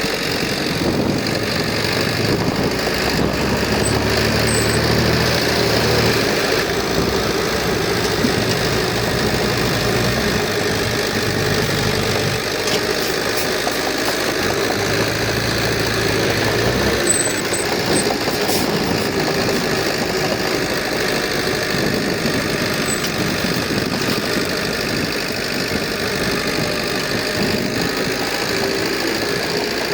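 Diesel engine of heavy earthmoving equipment running continuously, its low rumble swelling and easing a few times.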